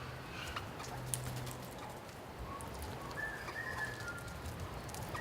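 Faint, scattered bird chirps and short whistled notes with small ticks and taps, over a low steady hum that fades partway through.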